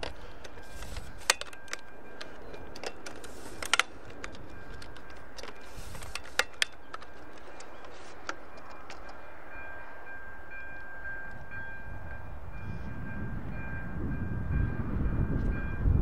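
Level crossing warning bell ringing in a steady, even pulse with a few sharp clicks, as a train approaches: its low rumble builds and grows louder in the last few seconds.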